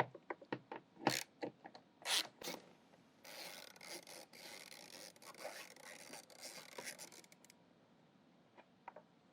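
Ratchet wrench loosening 10mm bolts: a few sharp clicks and knocks as the socket goes onto the bolt, then about four seconds of quick, rasping ratchet clicking that stops before the last couple of seconds.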